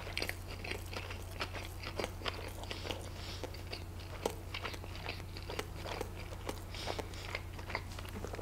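Close-miked chewing of a mouthful of cheeseburger: many small irregular mouth clicks and smacks, over a steady low electrical hum.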